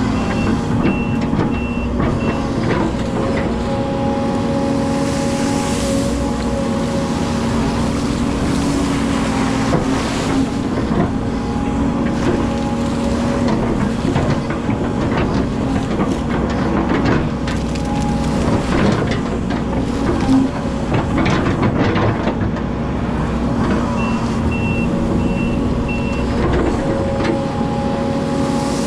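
Hydraulic excavator engine running steadily under working load, with scattered knocks and scrapes from the machine at work. A short series of high, evenly spaced warning beeps sounds twice: about a second in and again near the end.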